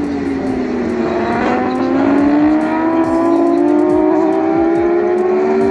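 Stock 1000 superbike engines at racing revs, the pitch dropping about a second in as the bikes slow for the corner, then climbing steadily as they accelerate out; more bikes sweep past with falling pitch.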